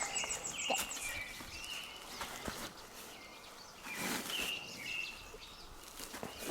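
Birds chirping in short whistled phrases, in two bursts, with a few brief knocks or scrapes in between.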